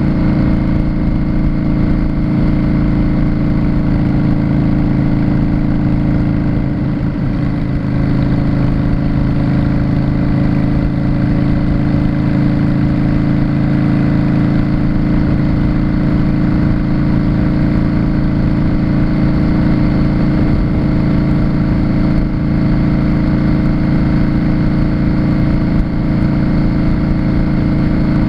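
Yamaha Drag Star 650's air-cooled V-twin engine running at a steady, unchanging pitch while the motorcycle is ridden.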